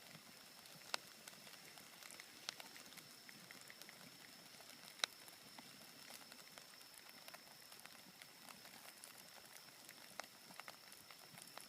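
Wood bonfire crackling faintly, with a few sharp pops scattered through it, the loudest about halfway through.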